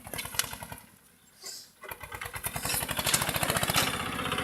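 Small tractor engine running with a steady firing beat; the sound drops out for about a second near the start, then the engine comes back and runs louder.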